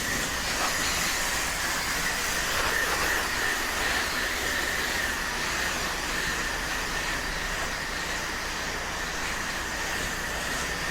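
Pressure washer spraying a downstreamed soft-wash soap mix: a steady hiss of spray with a constant high tone and low hum from the running machine.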